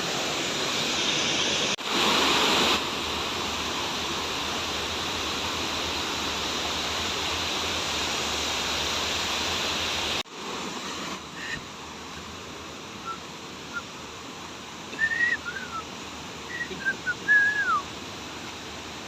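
Steady rush of falling water. About ten seconds in it cuts off abruptly to a quieter background, where a bird calls several times near the end with short chirps and falling whistles.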